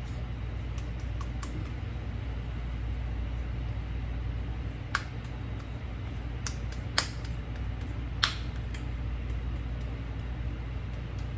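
A few light, sharp clicks and taps from hands shaping and rolling potato patties, the loudest around five, seven and eight seconds in, over a steady low hum.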